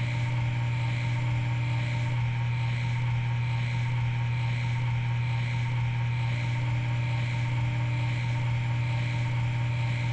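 A steady low mechanical hum at an even level, with a few faint steady higher tones over it.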